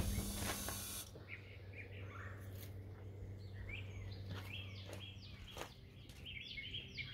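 Songbirds chirping faintly, ending in a quick run of repeated short downward-sweeping chirps, over a low steady hum.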